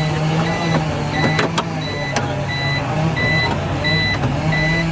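An electronic warning beeper pulsing steadily, about three short beeps every two seconds, over a low steady hum with a few sharp clicks.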